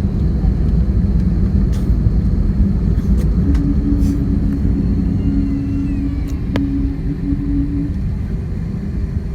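Airliner cabin noise during the landing roll-out: a loud low rumble of the wheels on the runway and the engines, with a steady hum from about three and a half seconds in until about eight, easing slightly as the plane slows.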